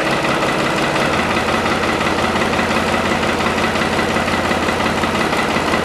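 Farm tractor engine idling steadily from a cold start, with its low hum growing stronger about a second in. The engine and hydraulic fluid are still cold, which leaves the hydraulics stiff and slow.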